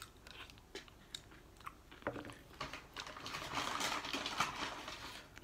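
Eating sounds: chewing and small mouth clicks, with the crinkle of a small butter packet being picked and torn open, busiest about three and a half to four and a half seconds in.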